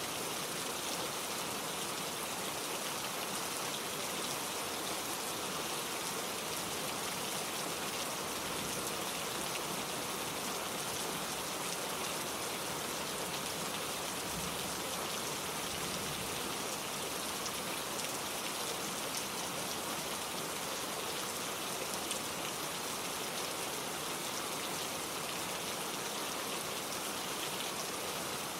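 Gentle rain falling steadily, an even hiss of many fine drops with no thunder.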